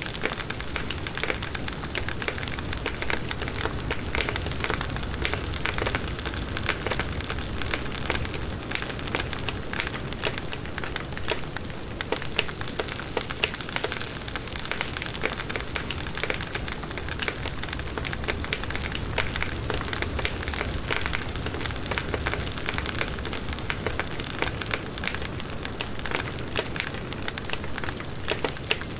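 Firewood burning in a campfire, with dense, continuous crackling and popping over a steady low rush of flames.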